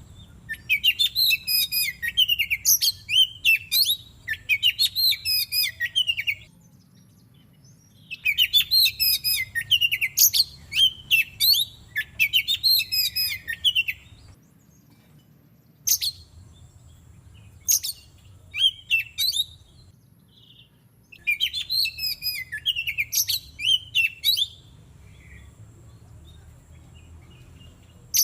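Oriental magpie-robin singing: loud phrases of rapid, varied whistled and chattering notes, each a few seconds long, separated by short pauses with single sharp calls between them.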